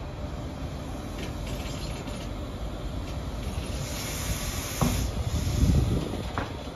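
HST coach running along the line, heard from an open window: steady rushing wind and wheel-on-rail rumble. About five seconds in there is a sharp knock and a surge of louder rumble, and another knock just before the end.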